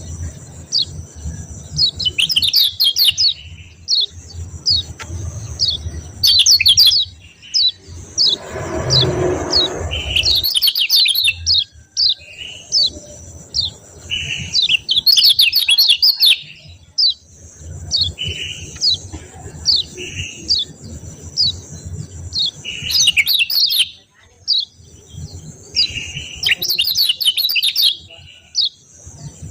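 A kecial kuning (yellow white-eye) calling in rapid, fast-repeated series of sharp, high 'ciak ciak' chirps that come in dense clusters every few seconds. A short noisy rustle about eight seconds in, with a low hum underneath throughout.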